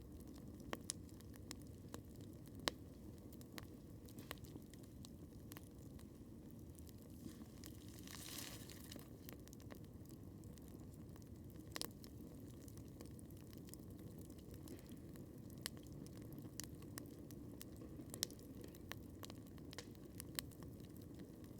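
Wood campfire crackling: irregular sharp pops and snaps, some louder than others, over a faint, steady low rumble from the burning fire. A brief hiss rises and fades about eight seconds in.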